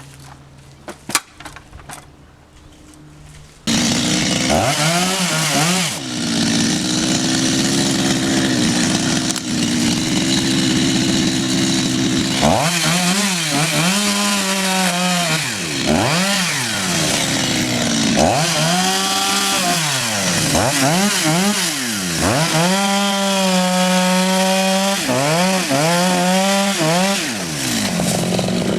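Chainsaw comes in suddenly about four seconds in, after a few faint clicks, and runs at high revs while cutting wood, its engine note repeatedly dropping and rising again every second or two.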